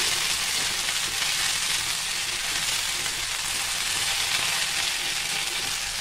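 Chopped okra and onions sizzling steadily in hot oil in a kadhai while being stir-fried with a perforated metal spatula.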